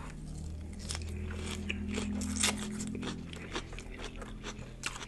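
Close-miked chewing of a mouthful of Caesar salad: crisp lettuce crunching in irregular, closely spaced bites.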